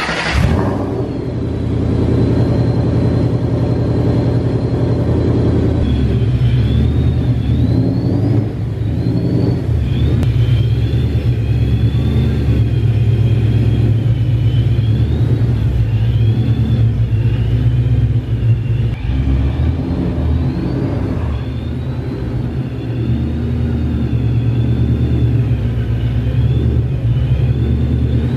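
Ford Mustang engine running at low revs with a steady, deep rumble, dipping briefly a couple of times.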